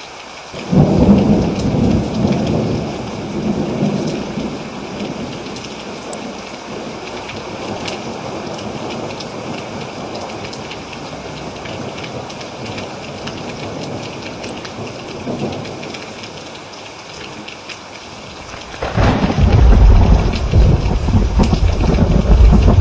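Steady heavy rain with rolling thunder. One long rumble breaks in under a second in and fades away over several seconds, and a second, louder rumble starts about nineteen seconds in and is still going at the end.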